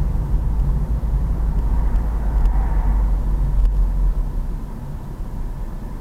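Pit bike's small single-cylinder engine running on the move, buried under a heavy rumble of wind on the microphone, easing off a little about four and a half seconds in.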